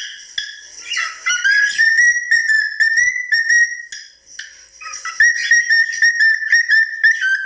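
Cockatiel whistling its song: runs of short, warbling whistled notes, with a brief lull about four seconds in.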